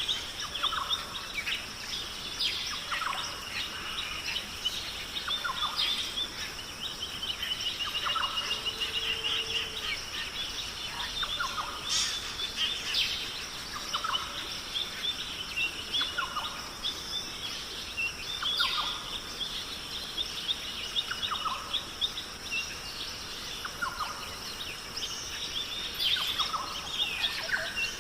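Several birds chirping and calling over a steady hiss of outdoor ambience, with a short lower call repeating about every one and a half to two seconds and a brief trill about eight seconds in.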